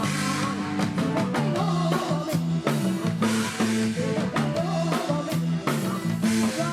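Live band music: a drum kit beat and a steady bass line under a singing voice.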